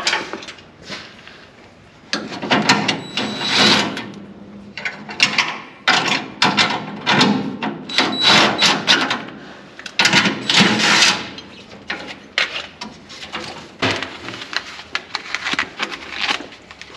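Irregular clattering, scraping and rustling of hand work on old truck wiring: wires, loom and hand tools being handled and pulled, in quick uneven bursts.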